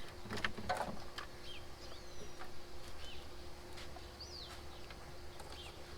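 Small birds chirping repeatedly in short sweeping notes, with a few light clicks and knocks in the first second.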